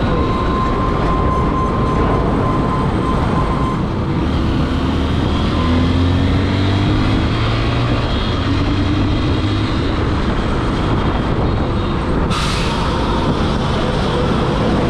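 Motorcycle on the move: a steady heavy rumble of wind over the mic with the Honda CRF150L's single-cylinder engine running underneath, its pitch shifting a little in the middle.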